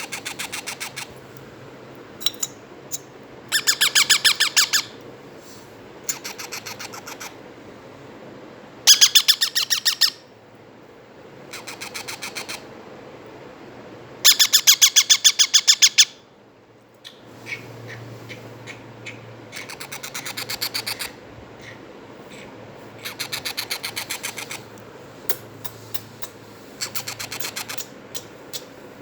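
Baby Indian ringneck parakeet chicks calling in about ten bouts of rapid pulsed chattering, each bout lasting a second or two, with short pauses between them.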